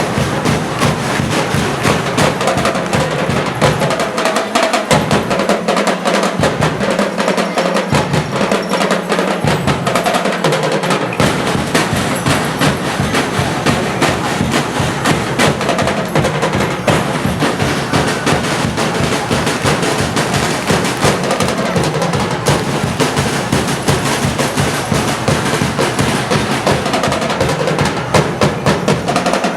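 Percussion-driven music with fast, continuous drumming, snare and drum-roll strikes, played for street dancing.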